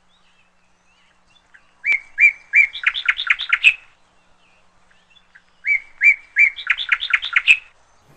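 A songbird singing the same short phrase twice: a few spaced, clear notes and then a quicker run of notes that climbs in pitch, each phrase about two seconds long.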